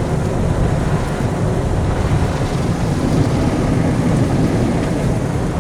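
Automatic car wash running over the car, heard from inside the cabin: a steady rumbling wash of water spray and machinery on the body.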